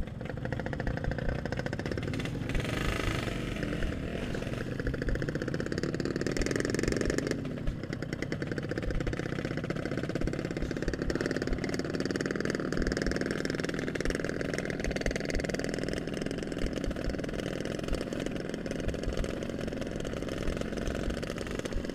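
Yamaha RX-King's two-stroke single-cylinder engine running steadily, its exhaust firing in a fast even stream of pulses, with short surges of noise about three and seven seconds in.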